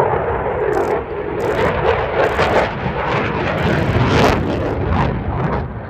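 Eurofighter Typhoon's two Eurojet EJ200 turbofan engines in afterburner: loud jet noise with rapid crackling, loudest about four seconds in and falling away near the end.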